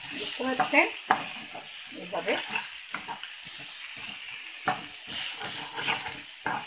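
Egg and mixed vegetables sizzling in hot oil in a kadai while a wooden spatula stirs and scrapes them against the pan, in repeated strokes over a steady hiss.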